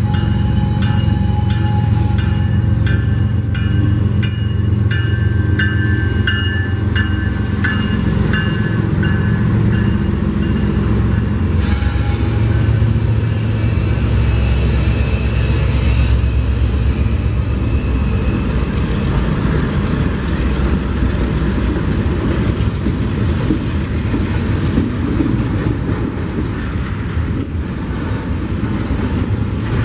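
Union Pacific freight train passing close, its diesel locomotives rumbling. A bell rings steadily and evenly for about the first twelve seconds and then stops. As the locomotives go by, the double-stack container cars follow with a steady rolling wheel noise.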